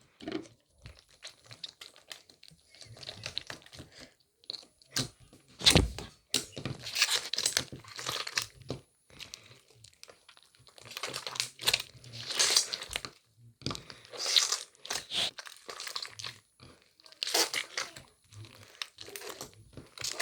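Irregular crinkling and tearing sounds in repeated bursts, the loudest a sharp one about six seconds in.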